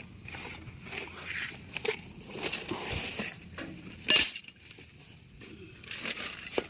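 Metal hand tools clinking and knocking against the tractor's wheel hub and nuts while the front wheel is being taken off, a string of irregular clinks with one loudest hit about four seconds in.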